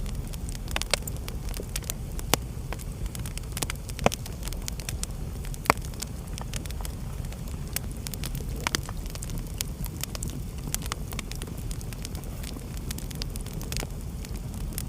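Wood fire burning in a fireplace: a steady low rumble of flames with irregular sharp crackles and pops, the loudest a few seconds in.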